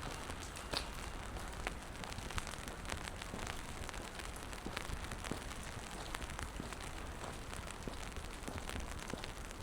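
Steady rain falling on wet pavement, a soft hiss dotted with irregular sharp drop ticks, over a steady low rumble.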